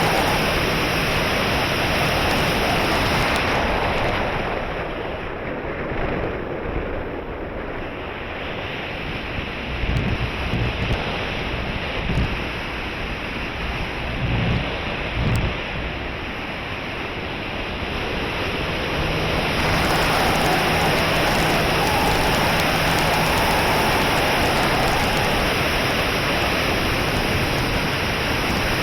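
Steady rushing wind noise on the microphone. It eases off for a while in the middle, when low gusts buffet the mic a few times, then comes back up.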